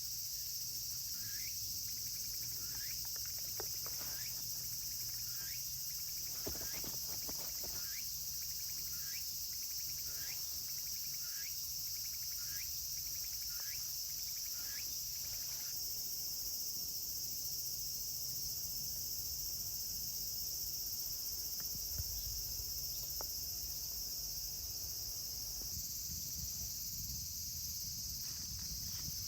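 Steady high-pitched chorus of crickets and other insects. Over the first half, a series of short rising chirps repeats about every 0.7 s, with a few faint clicks.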